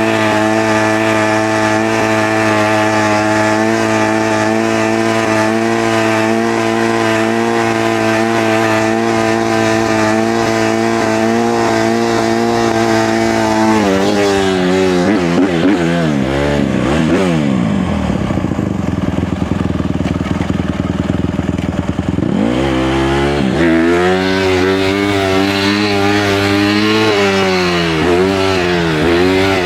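150cc dirt bike engine held at steady revs for about thirteen seconds, then revs swinging down and up, dropping low for several seconds, and climbing again to rise and fall near the end.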